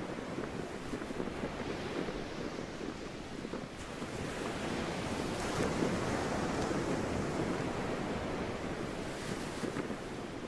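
Sea waves washing on the shore, with wind; the wash swells about four seconds in and eases a little near the end.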